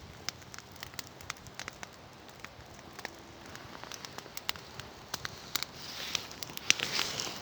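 Campfire crackling, with scattered sharp pops at irregular intervals that come thicker and louder near the end.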